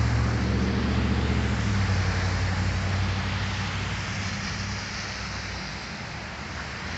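Motor vehicle engine, its low hum fading over a few seconds as it moves away, over a steady hiss of traffic on the wet street.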